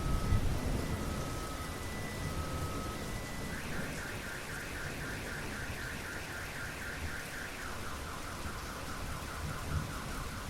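Steady rain with a thunder rumble dying away in the first second. A car alarm sounds through the rain: spaced beeps at first, then from about a third of the way in a fast repeating chirp, about four to five a second, that drops to a lower pitch near the end.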